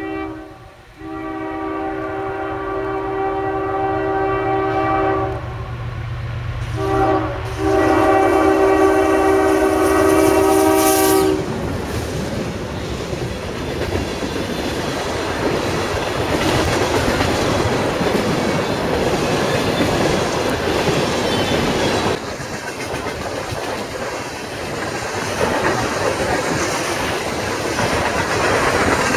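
Diesel freight locomotive's multi-chime air horn sounding the grade-crossing signal, long, long, short, long, over the engine's rumble. Then the train's cars rush past with a steady din of wheels on rail.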